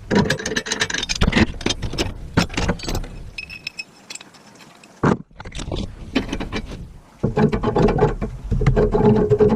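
Hand work on metal parts: a rapid run of scrapes, clinks and knocks, thinning to a quieter stretch with a faint steady ringing tone, then starting again after an abrupt break about five seconds in.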